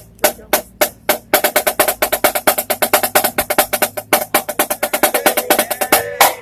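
Marching drum played by a drummer: a few slow single strokes, then a fast run of strokes building into a roll that stops abruptly near the end.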